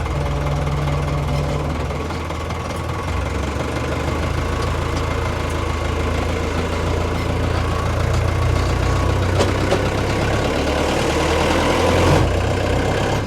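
A vehicle engine runs steadily at low revs. Its tone shifts about three seconds in and builds to a louder stretch near the end before easing off.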